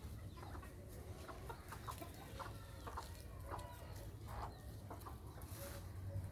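Chickens clucking in a string of short calls, over a steady low rumble.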